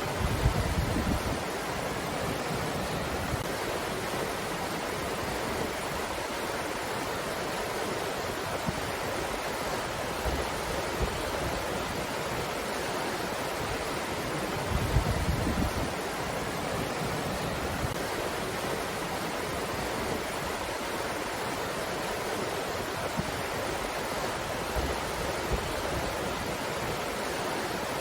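Steady rushing breeze, with a few brief low rumbles of gusts buffeting the microphone: near the start, about halfway through, and near the end.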